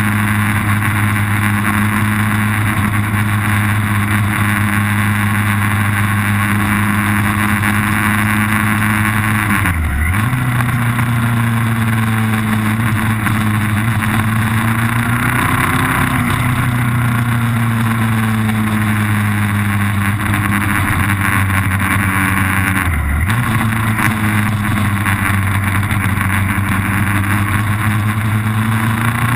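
Vehicle engine running hard on a race-track lap, holding a steady pitch that drops sharply and briefly twice, about ten and twenty-three seconds in, then picks back up. A strong rushing noise lies over it throughout.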